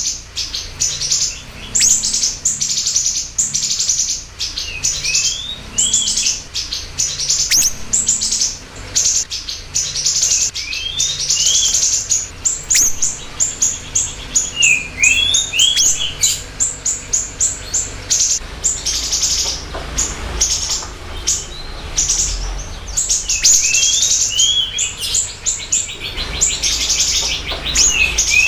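Siri-siri songbird singing in a lively, continuous stream of rapid high chirps and trills, broken every few seconds by a quick run of short down-slurred notes. It is the bird's full, energetic song, used as a lure and tutor recording for caged birds.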